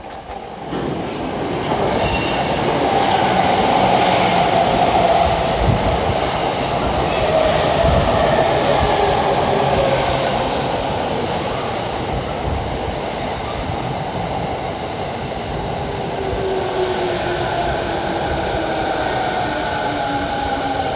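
A 15-car Yokosuka Line electric commuter train pulls into the platform and slows, with a loud rumble of wheels on rails. The rumble swells about a second in, and the motor whine falls steadily in pitch as the train brakes.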